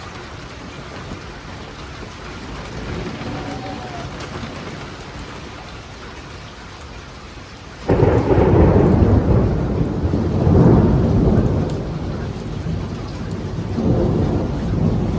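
Rain falling steadily, then about eight seconds in a sudden loud thunderclap breaks into a long rolling rumble of thunder that swells again twice before the end.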